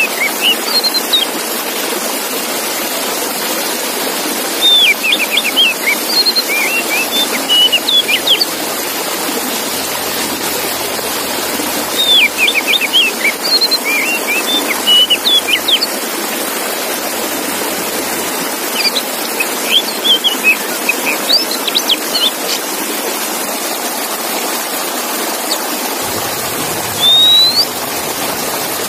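Male oriental magpie-robin singing in bouts of quick, sweeping whistled notes, with pauses of a few seconds between bouts, over a steady hiss of background noise.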